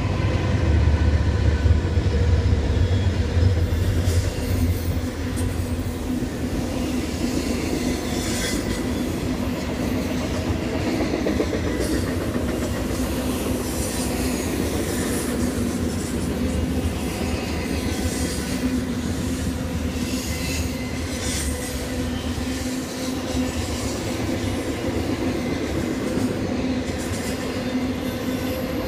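Union Pacific diesel freight locomotives going past with a heavy low rumble for the first few seconds. A long double-stack intermodal train follows: steady steel wheels rolling on rail, with many clicks of wheels over rail joints and some high wheel squeal.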